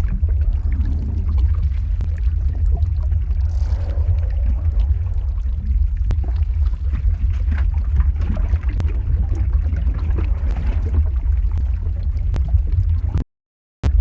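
Lava flow ambience sound effect: a deep, steady rumble with scattered crackles and pops. It cuts out to silence for about half a second near the end.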